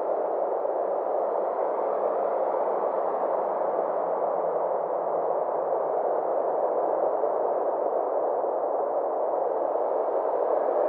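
Steady synthesized space ambience: a soft, even hiss-like drone centred in the middle range, its upper edge slowly swelling and fading over several seconds.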